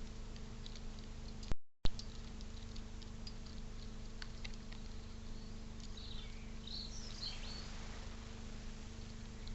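Steady low electrical hum from the feeder camera with faint scattered ticks and taps. About one and a half seconds in, the sound cuts out briefly between two sharp clicks. A short run of small bird chirps follows about six seconds in.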